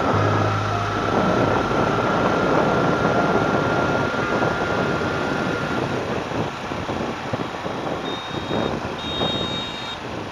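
Wind and road noise from a motorcycle on the move, with a thin steady whine for the first several seconds. A few short, high beeps sound near the end.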